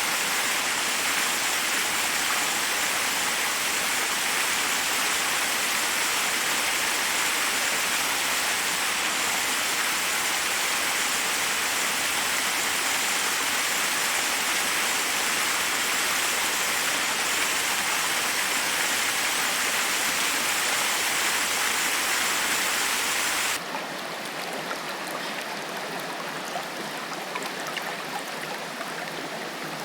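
Forest waterfall: a steady rush of falling water. About 23 seconds in it cuts abruptly to a quieter, thinner flow of water with small splashes.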